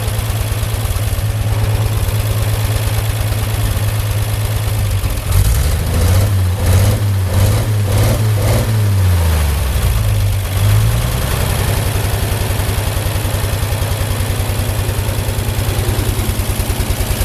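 Ford 8N tractor's 226-cubic-inch flathead six engine idling. About a third of the way in, its speed rises and falls several times for a few seconds, then settles back to a steady idle.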